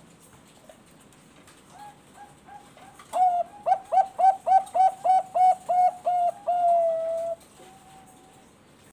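Zebra dove (perkutut bangkok) singing its cooing song: a few soft notes, then a loud fast run of about a dozen short coos, about four a second, ending in one longer drawn-out note.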